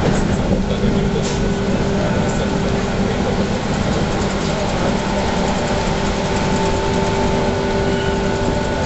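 Running noise heard inside a JR Central 117 series electric train: a steady rumble of wheels on rail, with a few brief clicks and a steady whine that sets in about half a second in.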